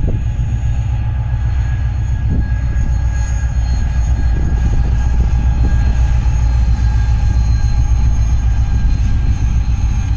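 Passenger train pulling into a station, with a steady low rumble and a thin, steady high whine over it.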